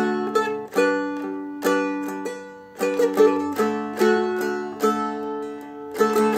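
Seagull Merlin M4 dulcimer strummed in open D: a melody played over ringing drone strings, with a fresh strum about every second.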